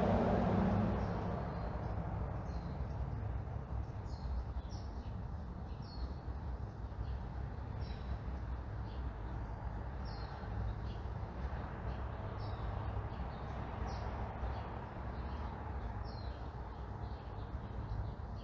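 Outdoor neighbourhood ambience: a passing vehicle fades away in the first second or so, leaving a steady low traffic rumble under small birds chirping in short repeated calls.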